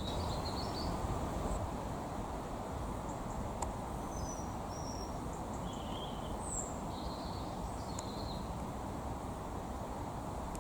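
Short, high bird chirps every second or two, faint over a steady low outdoor rumble.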